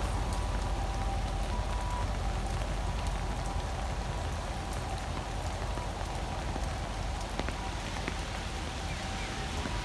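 Steady rain falling, with many scattered, separate drop impacts ticking through it.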